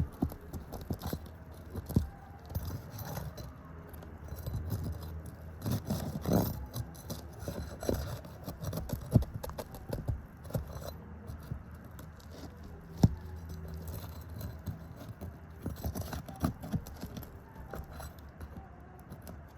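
Metal roofing tool scraping, clicking and rattling under asphalt shingles as the first row of nails is pried loose, with irregular sharp knocks, the sharpest about nine and thirteen seconds in, over a low steady hum.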